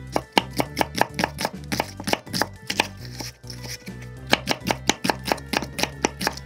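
Kitchen knife slicing an onion on a wooden cutting board: quick, even knife taps, about four a second, with a short pause about halfway through.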